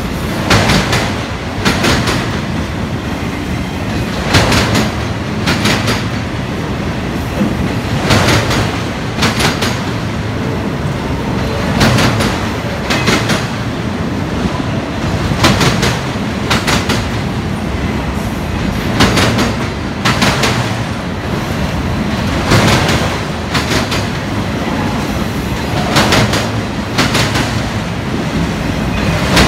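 Autorack freight cars rolling past slowly, their steel wheels clicking over a rail joint with a steady rumble underneath. The clicks come in groups of four, one group about every three and a half seconds, as each car's two trucks pass the joint.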